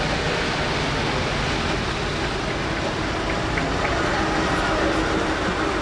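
Engine of an early-1900s Ford car running steadily as the car drives slowly past.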